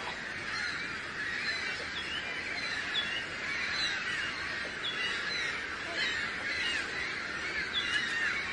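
A large flock of birds calling together, many short overlapping calls in a steady, dense chorus.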